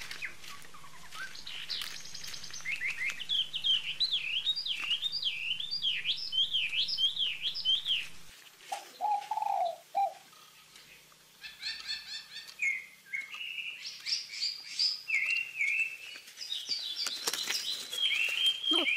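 Birds chirping and singing in quick, repeated high phrases, with a short lower call about nine seconds in.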